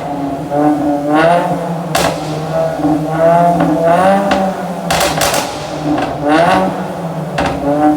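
Mazda 3 Skyactiv engine being revved up and let fall several times. Sharp exhaust pops and bangs crack out as the revs drop, a single one about a second and two seconds in and a quick cluster of three near five seconds. They are the pop-and-bang effect of an ECU remap.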